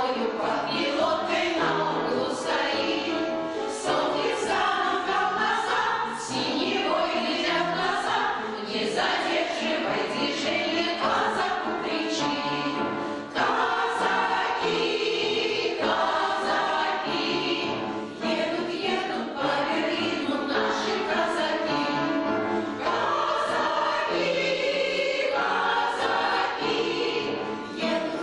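An amateur veterans' choir singing a song together, with short breaks between phrases.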